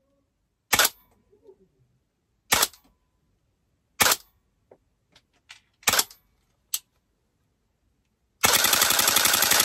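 DAS GDR416 airsoft rifle firing four single shots, each a sharp crack about one and a half to two seconds apart, then a short full-auto burst of rapid shots lasting about a second near the end.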